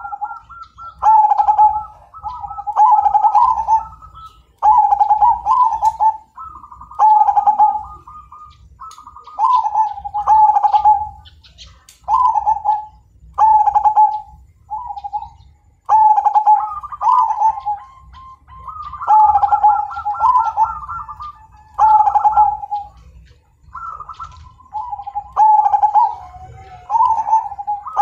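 Zebra dove (perkutut) of the Majapahit strain cooing over and over: a run of loud, rolling coo phrases repeated every second or two, each stepping between a higher and a lower note.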